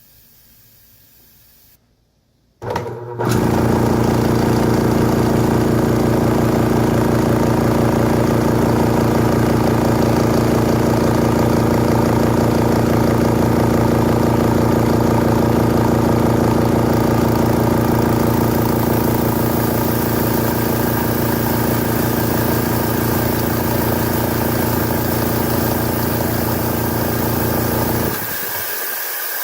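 Old air compressor switching on after a faint hiss and a brief pause: its motor starts abruptly and runs with a steady, even hum. Near the end the motor shuts off and a loud steady hiss of air carries on.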